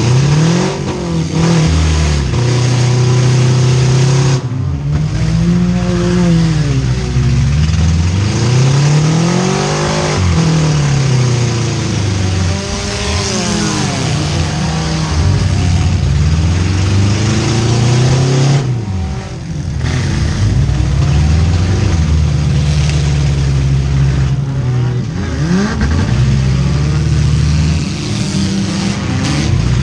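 Four-cylinder demolition derby cars revving hard, several engines at once, their pitch rising and falling in long swoops over and over.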